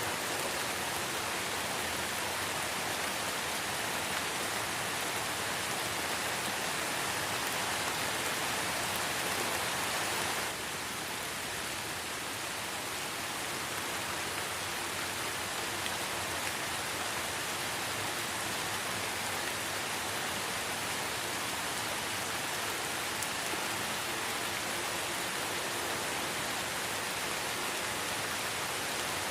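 Steady light rain falling in a forest, an even hiss of many drops with no single drops standing out. About a third of the way in it drops slightly quieter and duller, then stays steady.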